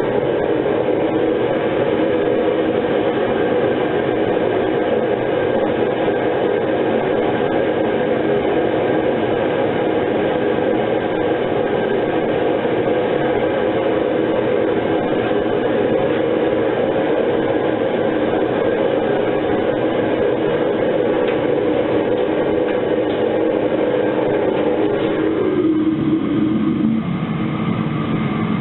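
Metal-melting furnace burner running with a steady, loud roar. Near the end the sound slides lower in pitch and loses some of its upper range.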